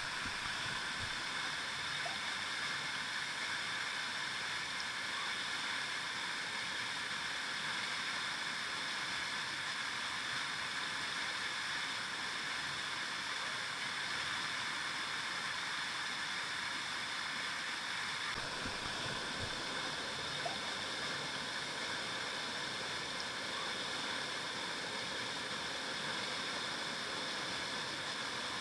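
River water flowing in a steady, even rush. Its tone shifts slightly about two-thirds of the way through.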